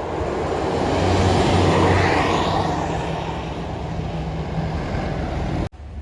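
Loaded truck engine running under load on a climb, with a rising pitch about two seconds in. The sound cuts off abruptly near the end and a quieter engine sound follows.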